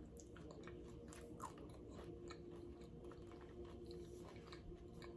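Faint close-miked chewing of nachos and chips: small crunches and mouth clicks over a faint steady hum.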